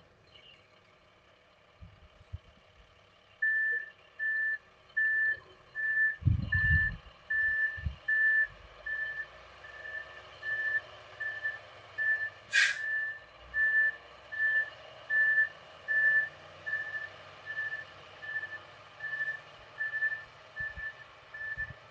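A vehicle's reversing alarm beeping at a steady single pitch, about one and a half beeps a second, starting a few seconds in. A few low thumps come about six to eight seconds in, and a single brief sharp sound in the middle.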